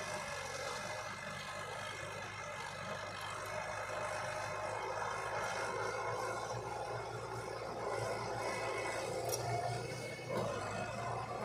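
Heavy diesel earthmoving machinery running steadily, its note changing about ten seconds in.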